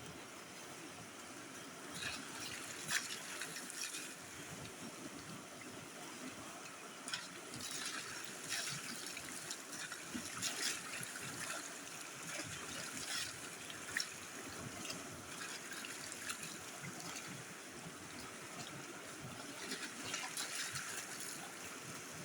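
Water trickling and splashing while someone bathes, with several louder bursts of splashing over a steady background hiss.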